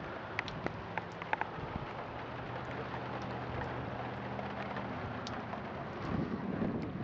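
Wind buffeting the microphone, with a few sharp clicks in the first second or so and a faint steady hum in the middle.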